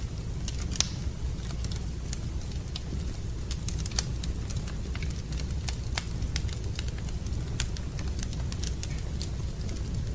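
Wood fire burning in a fireplace: irregular crackling and sharp pops over a steady low rumble, with the loudest pops about a second in and about four seconds in.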